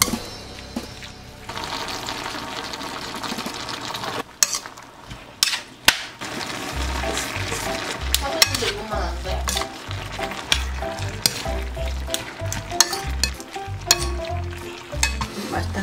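Butterbur stems sizzling as they are stir-fried in a stainless steel pan, with a utensil scraping and clicking against the pan as the vegetables are tossed. Background music plays along in the second half.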